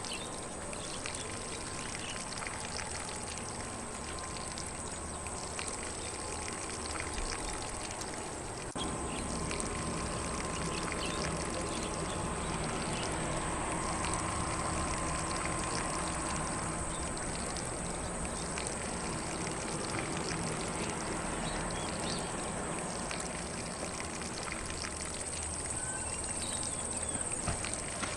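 Lawn sprinkler spraying water in a steady rush, with faint birds in the background. The water sound steps up slightly in level about nine seconds in.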